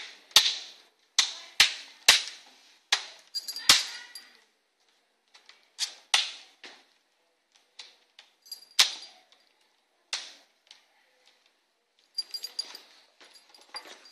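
Plastic screen bezel of an Asus K55N laptop being pressed onto the lid, its locking tabs snapping into place with a series of sharp clicks. The clicks are unevenly spaced, with a short lull midway and a run of smaller ticks near the end.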